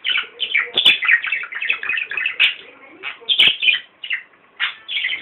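Pet parrot chirping and chattering in a rapid string of short, falling calls. A sharp click or knock comes about a second in and again about three and a half seconds in.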